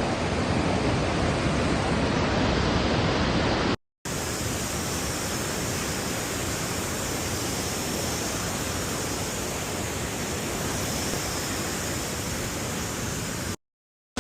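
Waterfall rushing: a steady, even wash of falling water. It is broken by two brief dead silences, about four seconds in and just before the end.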